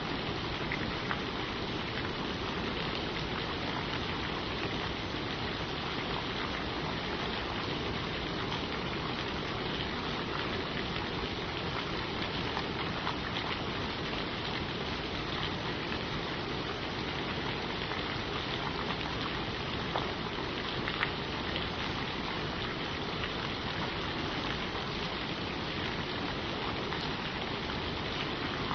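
Steady rain falling on forest leaves, an even hiss with scattered individual drops ticking through it.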